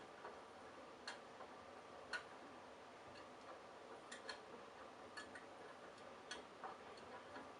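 Candy Bianca washing machine in its Delicates cycle: faint, irregular clicks and ticks, about one or two a second, over a faint steady hum.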